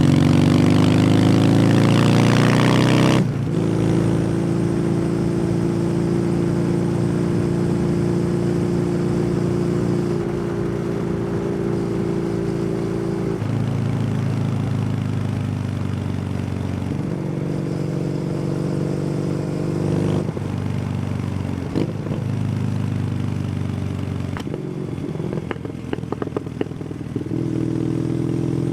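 Kawasaki W800's air-cooled parallel twin through an SC Project aftermarket exhaust, heard on the move: it revs up and drops suddenly at a gear change about three seconds in, then runs steadily at cruising speed. In the second half the throttle eases and opens several times, with a few short pops while rolling off near the end before it pulls again.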